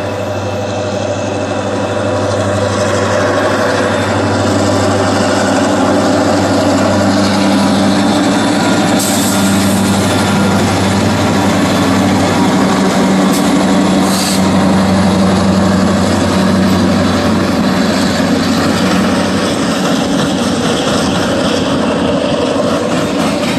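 Diesel freight locomotives, which the railfan takes for EMD units, passing close by with a steady low engine drone that builds as they draw level. About twenty seconds in the engine sound gives way to the rolling noise of the freight cars behind them.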